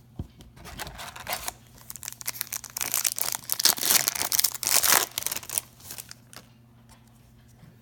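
A foil trading-card pack being torn open and its wrapper crinkled, a dense crackling that is loudest between about three and five seconds in and dies down for the last couple of seconds.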